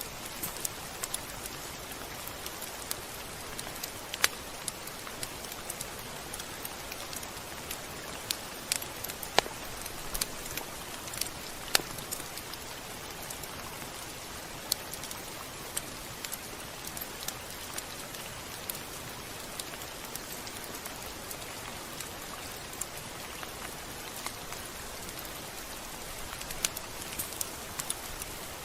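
Steady rain, an even hiss with scattered sharper drops tapping on a surface; a few louder taps stand out, at about 4, 9 and 12 seconds in.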